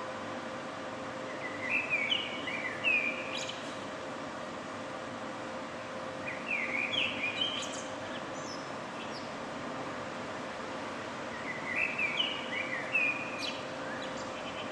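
A songbird sings three short warbled phrases about five seconds apart, each a quick run of up-and-down notes ending in a brief high upward squeak. A steady low city hum runs under them.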